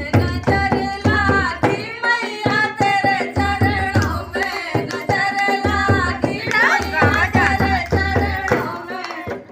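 A woman singing a devi geet, a Hindi folk devotional song to the goddess, with a hand drum beating a steady rhythm; the singing dies away near the end.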